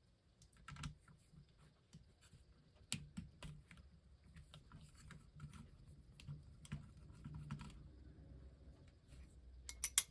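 Small ratchet wrench clicking in short irregular runs as a motor-mount nut is backed off, with light metal handling clicks and a few sharper clicks near the end.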